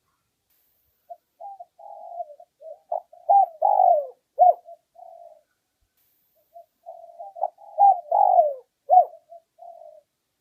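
Spotted dove cooing: two phrases of several low coos, each rising to louder notes with a downward-sliding coo near its end. This is a decoy dove's call, used to draw wild males in to fight.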